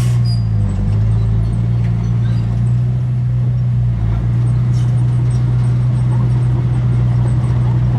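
Diesel engine of a heavy earthmoving machine running steadily with a low drone, its pitch sagging briefly twice as it takes load.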